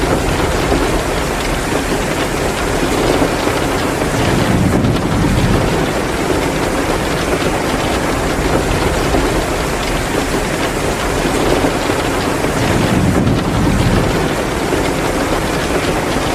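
Heavy downpour of rain, a steady dense hiss. It swells lower and louder twice, about five seconds in and again some eight seconds later.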